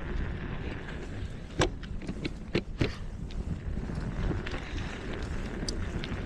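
Wind rumbling on the microphone while riding a bicycle, with a few sharp knocks or rattles between about one and a half and three seconds in.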